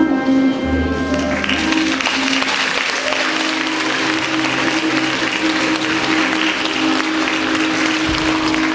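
The music ends on held notes, and audience applause breaks out about a second and a half in and keeps going.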